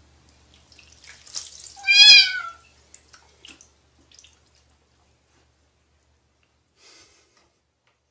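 A kitten gives one loud, wavering meow about two seconds in. Water splashes in a basin around it, with a few smaller drips and splashes afterwards.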